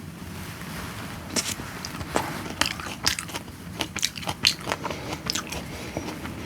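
A person eating close to the microphone: biting and chewing, heard as many irregular sharp clicks and smacks that start about a second and a half in.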